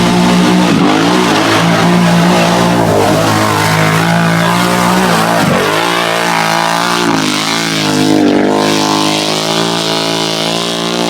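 Off-road vehicle engine at full throttle in deep mud, its pitch dipping sharply and climbing back several times as the revs rise and fall.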